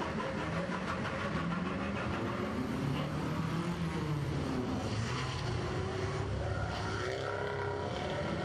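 Small petrol car engines, Fiat Abarth 500s among them, running as the cars drive slowly past one after another. One engine revs up briefly a little before the end.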